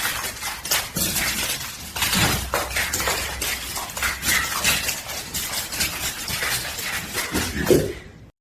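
Continuous clattering of hard objects: a dense run of sharp clinks and knocks, like glass or dishes rattling, which stops abruptly near the end.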